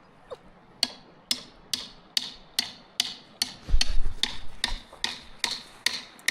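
A hammer striking repeatedly in a steady rhythm, about two and a half blows a second, each a sharp crack with a short ring.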